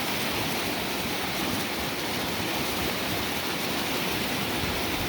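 Creek running high with snowmelt runoff, rushing steadily past a sandbag dam.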